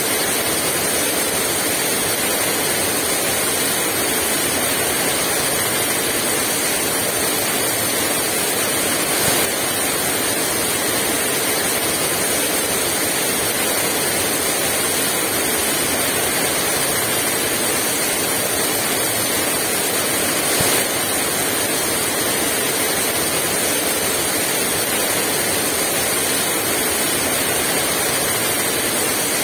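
Heavy rain falling steadily, a dense even hiss with no wind in it. Two brief louder taps stand out, about nine and twenty-one seconds in.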